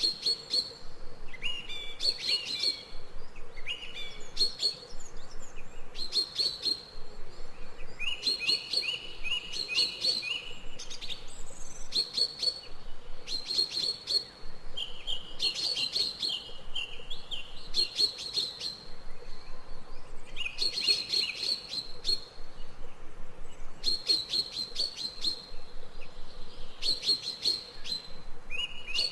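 Birds chirping: bursts of rapid, high-pitched chirps and trills repeating every second or two, over a faint background hiss.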